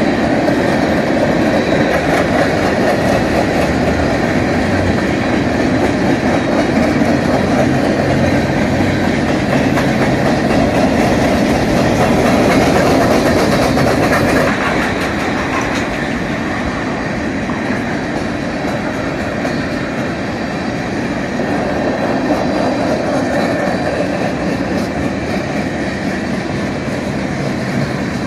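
Freight train boxcars rolling past at trackside: the steady clatter of steel wheels on the rails, dropping somewhat in level about halfway through.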